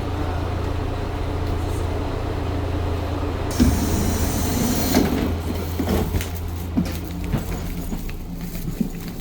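Diesel railcar standing at the platform with its engine idling in a steady low hum; about three and a half seconds in, a sharp hiss of released air lasts a second or so, followed by a few knocks and clunks.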